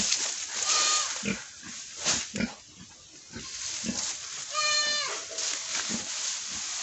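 Pigs grunting repeatedly, with two high-pitched squeals: a short one about a second in and a longer one about two-thirds of the way through.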